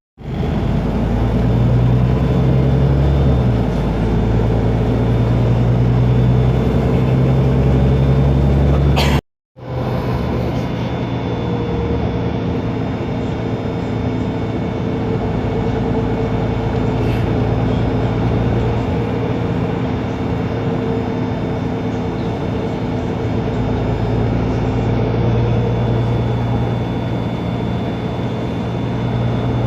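Otokar Kent LF city bus's Ford Ecotorq diesel engine running steadily, together with its Voith DIWA automatic gearbox, with a steady whine above the engine drone. The sound breaks off for a moment about nine seconds in and resumes.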